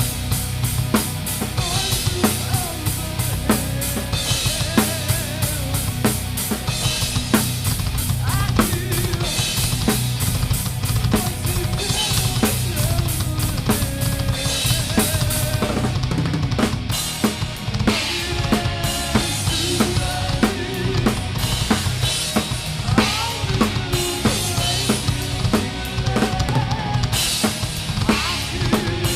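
A rock band playing live, heard close up from the drum kit: a Pearl Masters kit drives a steady beat of bass drum and snare hits, with the rest of the band playing underneath.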